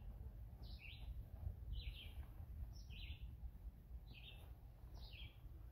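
A small bird calling over and over, about once a second, each call a short high note dropping to a lower one, over a faint low rumble.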